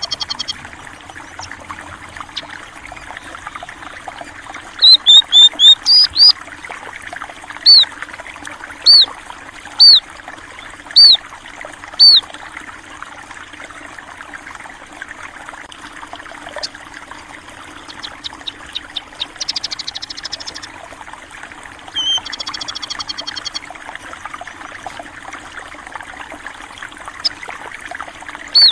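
Steady flowing water from a stream, with small birds calling over it: a run of loud, short chirps, quick at first and then about one a second, and three buzzy trills at the start, about two-thirds of the way in, and shortly after.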